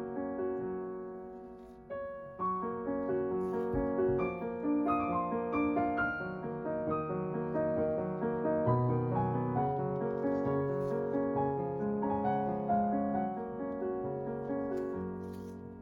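Background piano music: a gentle melody over chords, with the notes struck and left to ring. It dips briefly about two seconds in and fades near the end.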